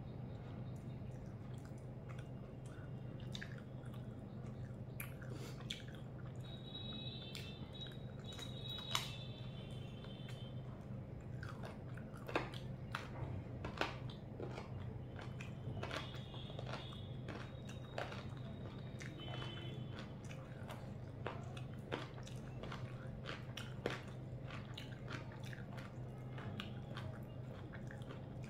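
Close-up chewing and biting of a person eating rice and chicken by hand, with scattered sharp clicks, over a steady low hum.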